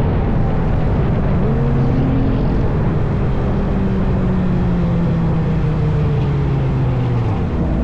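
Vehicle engines running at moderate revs, their pitch holding and slowly drifting with a steady rushing noise underneath.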